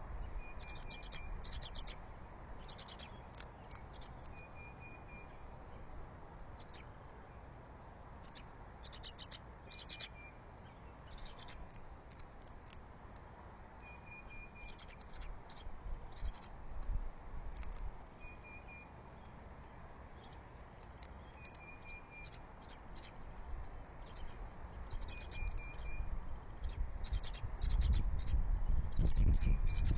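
Wind buffeting the nest-cam microphone in gusts, strongest near the end. Over it, short trains of rapid, very high-pitched clicks or chirps recur every second or two.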